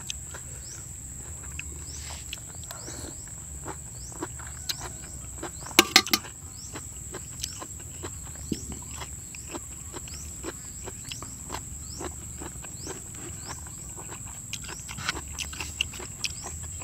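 Close-up eating sounds: chewing and small mouth clicks, with a quick cluster of three sharp clicks about six seconds in, over a steady high-pitched drone of insects chirping.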